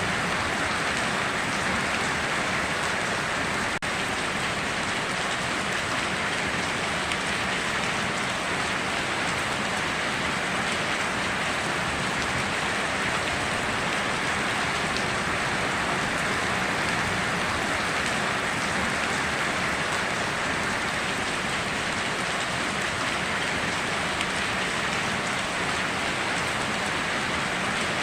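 Steady, heavy rain falling, a dense even hiss of drops with no pauses. There is a momentary dip about four seconds in.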